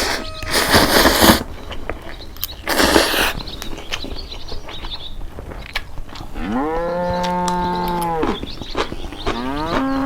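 Two brief rustling noises, then a long, low moo-like call about two seconds long that rises, holds and falls in pitch, and a second, shorter call near the end.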